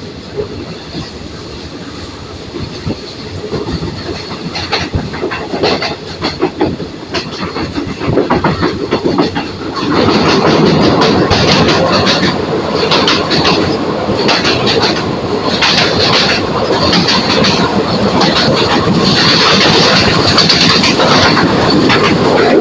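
Passenger train running on the rails, heard from inside the carriage by an open window, with wheels clicking over the rail joints. The rumble and clatter grow louder as the train gathers speed, with a sudden step up about ten seconds in.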